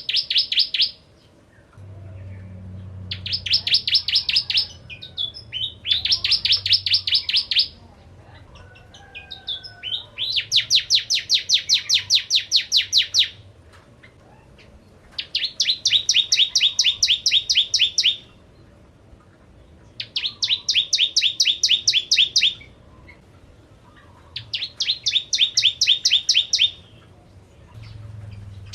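Bar-winged prinia (prenjak/ciblek) singing: repeated bouts of rapid, sharp chirping notes, about six a second. Each bout lasts one to three seconds, with short pauses between them, seven bouts in all.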